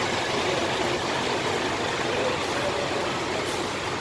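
Diesel bus engine running at low revs, over a steady hiss of rain.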